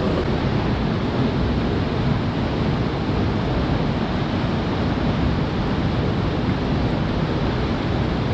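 Steady rushing of water, a loud even noise that holds without swells or breaks.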